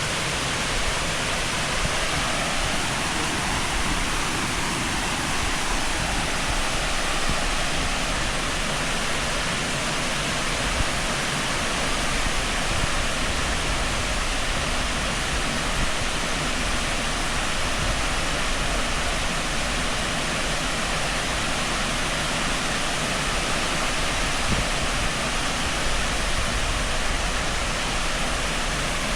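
Tall waterfall pouring steadily: an even, dense rushing of falling water with no breaks.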